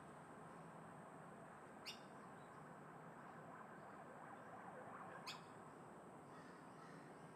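Faint, steady outdoor background of wind and distant traffic, with two short, sharp high bird chirps about three and a half seconds apart.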